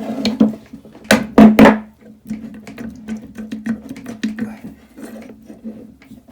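Metal tools and engine parts clinking and knocking on a workbench, with three loud knocks about a second in and lighter clicks after, over a steady low hum.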